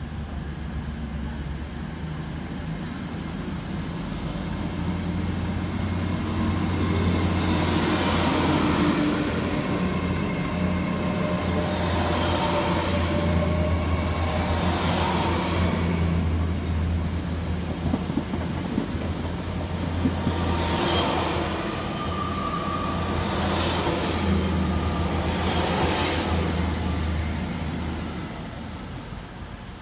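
A train running on rails: a steady low rumble with a thin high whine, and a louder clatter of wheels every few seconds. It swells over the first several seconds and fades near the end.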